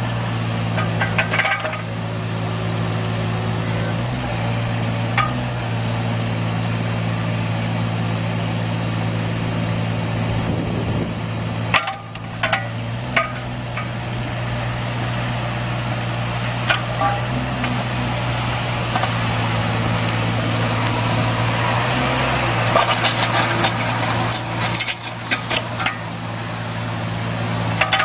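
Kubota KX41-3V mini excavator's diesel engine running steadily, with scattered metallic clanks and knocks from the working machine. There are clusters of knocks about a second in, around twelve seconds in, and near the end.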